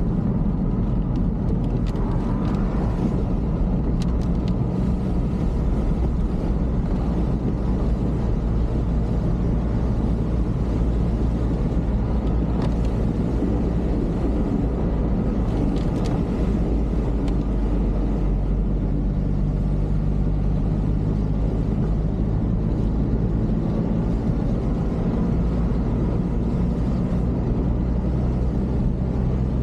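Motor vehicle on the move: a steady engine drone with road noise. The engine note shifts to a different pitch partway through.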